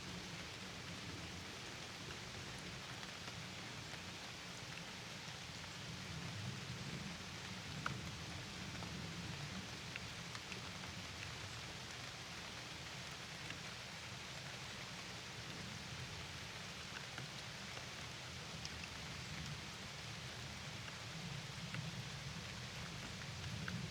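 Steady rain falling, a constant even hiss with a few separate drops ticking now and then.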